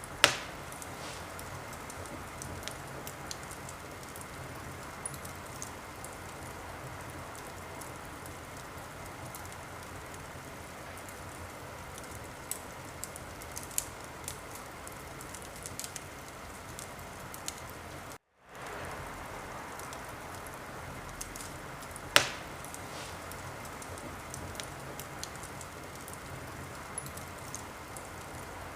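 Wood fire crackling in a fireplace: a steady hiss with scattered small snaps and two loud pops, one just after the start and one about 22 seconds in. The sound drops out completely for a moment about 18 seconds in.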